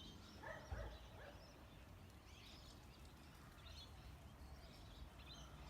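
Faint birdsong: scattered distant chirps and calls from several birds over a quiet background.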